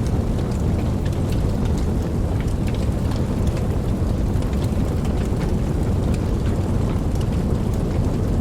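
Campfire burning steadily with a low rumble, and many small pops and crackles scattered throughout.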